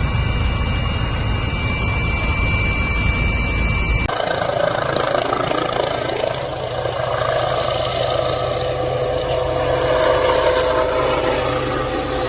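Helicopter cabin noise: a steady engine and rotor drone with a high whine. About four seconds in it changes abruptly to a thinner, less rumbling noise with a steady hum.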